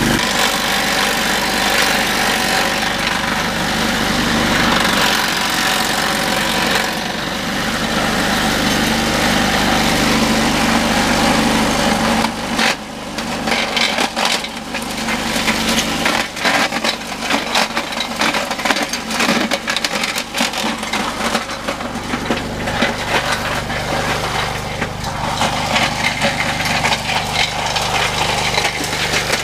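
Homemade wood chipper driven by a Briggs & Stratton four-stroke petrol engine, running steadily while branches are fed through it. From about twelve seconds in, dense irregular cracking and splintering of wood being shredded into chips.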